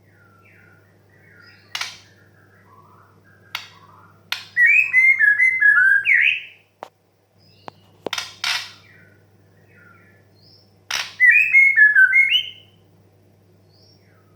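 White-rumped shama calling: short harsh rasping calls, and twice a quick run of loud whistled notes sliding up and down, about four and eleven seconds in. Faint chirps of other birds and a low steady hum lie underneath.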